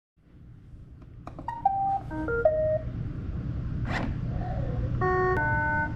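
Roomba robot vacuum's speaker playing its error alert: a quick run of short electronic beeps at different pitches, a sharp click about four seconds in, then two held chord-like tones near the end, over a low hum. The alert signals error 14, bin not detected.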